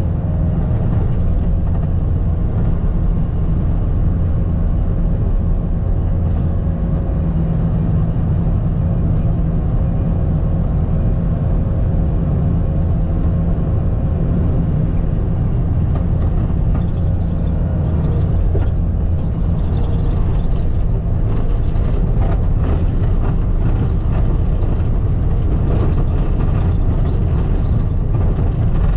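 Skid steer engine running steadily under load while grading, with a heavy low rumble and scattered clatter and rattling in the second half.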